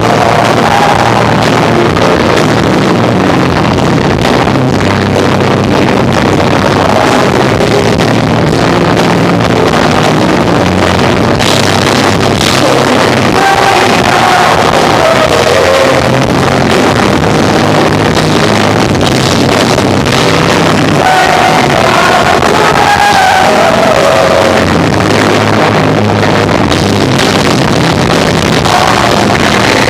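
Live rock band of electric guitar, bass and drums playing loud and continuous, recorded hot and distorted.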